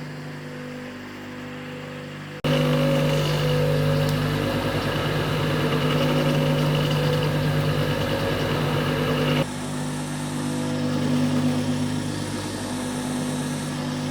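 Engine of a farm machine running steadily. It turns abruptly louder about two and a half seconds in, then drops back about nine and a half seconds in.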